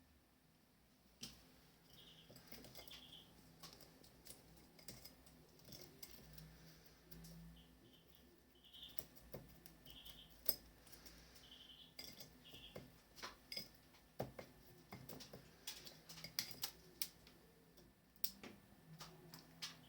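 Pet birds in a room: faint short chirps repeated every second or so, over many light clicks and taps, with one sharper tap about halfway through.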